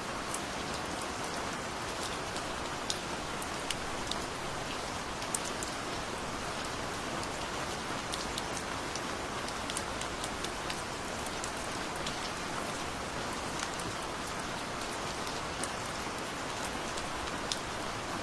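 Steady gentle rain: an even hiss of rainfall with scattered sharper ticks of single drops landing close by.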